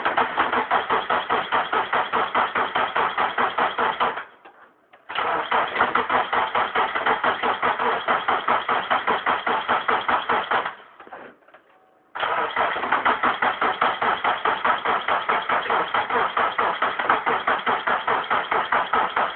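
1998 Subaru Forester's flat-four engine being cranked by the starter motor in three long attempts, with an even, rapid pulsing beat and short pauses about four seconds in and again near eleven seconds. It turns over but never fires: a no-start after both head gaskets were replaced.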